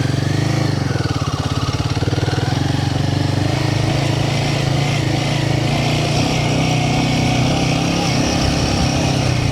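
Royal Enfield Himalayan 450's single-cylinder engine running steadily under the rider, with a rushing hiss of wind and tyres on top.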